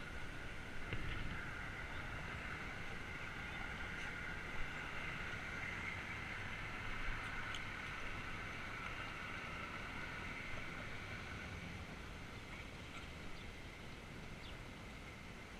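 Steady rushing noise of a bicycle ride picked up by a GoPro: wind and rolling road noise, with a few faint clicks.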